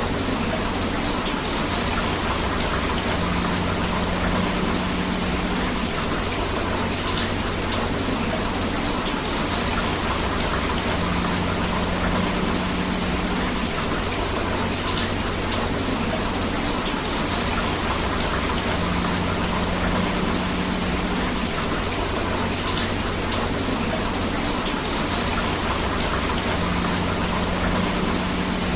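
Steady, unbroken rush of rain and flowing river water. A faint low hum comes and goes about every eight seconds underneath.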